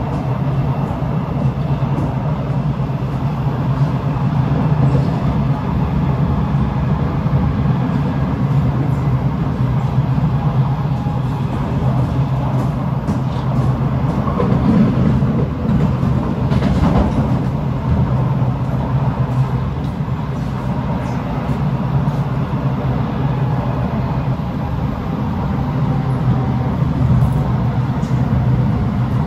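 Kawasaki C751B metro train running at steady speed between stations, heard from inside the car: a steady low rumble of wheels on the rails, with faint steady tones above it.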